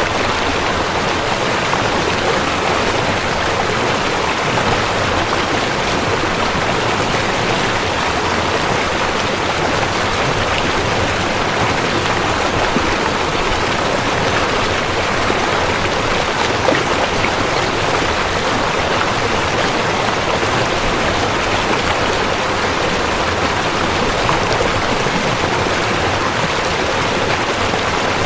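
Rushing river: steady, loud water noise with no change.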